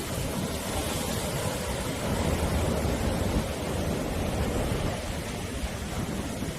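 Sea waves breaking and washing on the shore, a dense steady rush with a deep rumble, swelling a little in the middle and easing near the end. Wind buffets the microphone.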